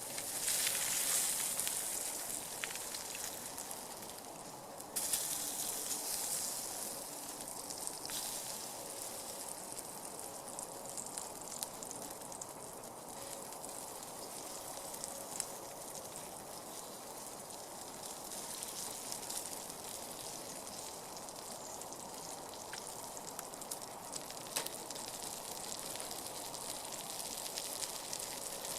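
Slices of Spam frying on a folding grill over a campfire: a steady sizzling hiss with scattered small pops, louder for the first couple of seconds.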